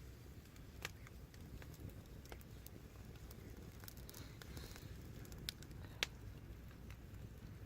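Wood fire crackling: scattered sharp pops and ticks, loudest about six seconds in, over a steady low rumble of the burning.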